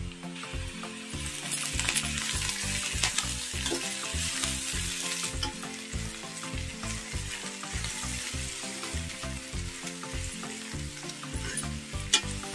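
Chopped spring onions frying in oil in a steel pan, a steady sizzle that swells about a second and a half in, while a steel spoon stirs them with light scrapes and clicks against the pan. Soft background music runs underneath.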